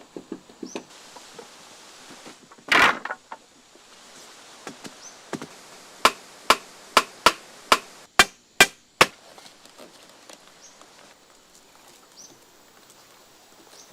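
A tool striking wood: a quick run of about nine sharp chops or knocks, roughly three a second, after one louder single knock about three seconds in.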